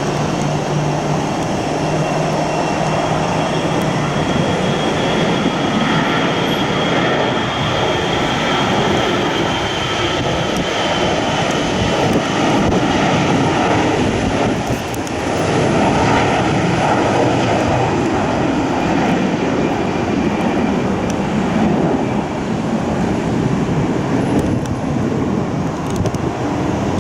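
Jet airliner engines, loud and steady, with a faint high whine that lowers slightly and fades about halfway through.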